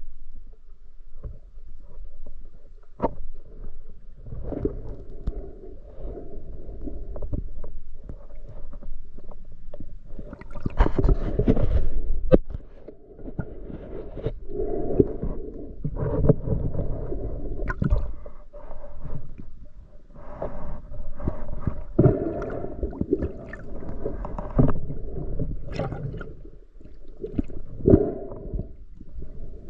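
Muffled sloshing and gurgling water, with irregular knocks and clicks and several louder swells.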